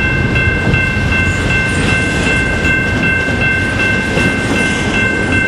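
Double-stack intermodal well cars of a freight train rolling past close by: a continuous rumble of wheels on rail, with a steady high-pitched whine held over it.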